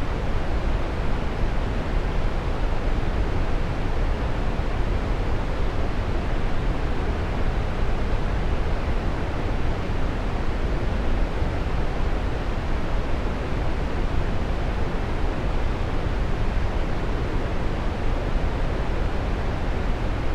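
Waterfall: a steady rush of falling water, even and unbroken, heaviest in the low end.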